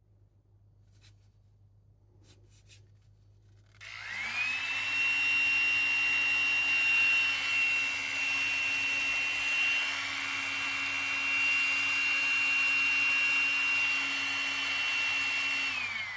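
Motor and suction fan of a ZenCT CT210 cordless suction pet trimmer: after a few faint clicks, it switches on about four seconds in, spins up quickly and runs as a steady whine over an airy rush. Near the end it is switched off and winds down with falling pitch.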